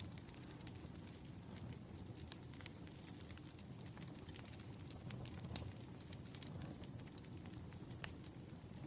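Wood fire crackling: scattered small pops over a low, steady rumble, with one louder pop about eight seconds in.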